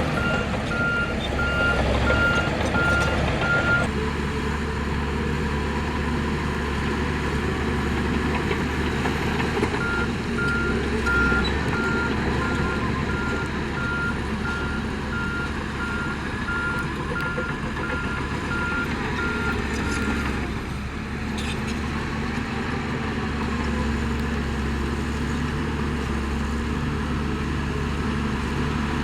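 Heavy construction machinery's diesel engines running steadily, with a backup alarm beeping about twice a second while a machine reverses, for the first four seconds and again from about ten to twenty seconds in.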